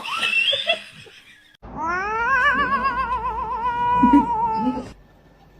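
A cat gives a short rising cry, then, about a second and a half in, one long wavering yowl lasting about three seconds that stops abruptly.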